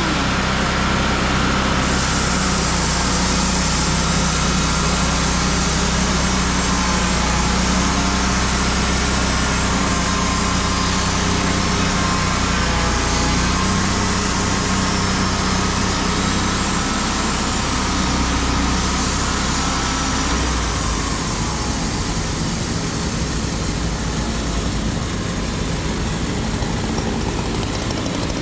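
An engine runs steadily throughout, its pitch wavering a little, with its lowest part dropping away after about twenty seconds.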